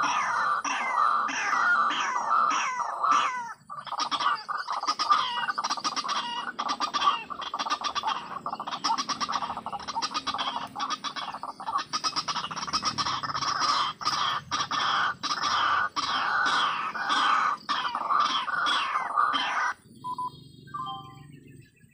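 White-breasted waterhen (ruak-ruak) calling: a loud, fast run of repeated notes, about two a second. It breaks briefly a few seconds in and cuts off suddenly near the end.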